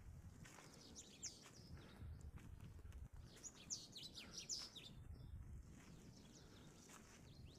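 Faint birdsong: quick, high chirps in two short bursts, about a second in and again around the middle, over a low, steady outdoor rumble.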